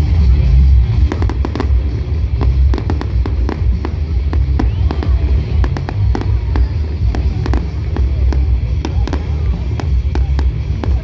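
Fireworks crackling and popping, many sharp cracks in quick, irregular succession, over loud bass-heavy music.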